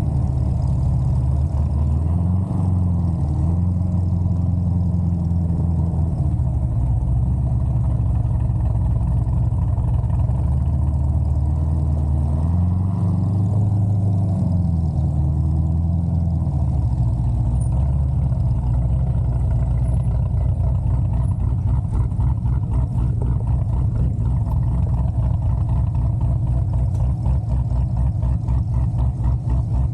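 Big-cam C6 Corvette Z06's 7.0-litre LS7 V8 running at low speed, its pitch rising and falling twice. It then settles into a steady, evenly pulsing idle for the second half.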